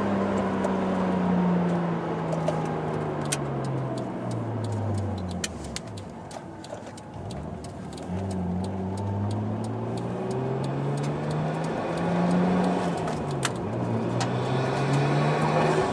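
Nissan Skyline ECR33's straight-six engine heard from inside the cabin, its pitch falling as the car slows over the first five seconds and going quieter for a couple of seconds. It then rises as the car accelerates, drops sharply once near the end at an upshift and climbs again, with light scattered clicks over the top.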